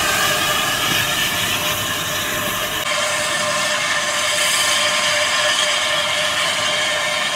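Railway train moving on the line, a steady rushing noise with a faint steady hum, shifting suddenly about three seconds in.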